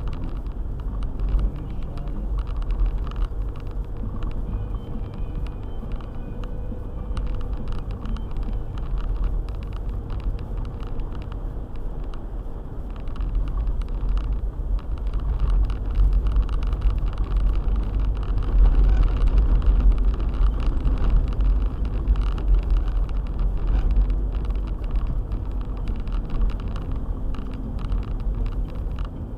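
Car driving on a snowy road: a steady low rumble of engine and tyres with many small ticks and knocks throughout, growing louder about halfway through and easing off near the end.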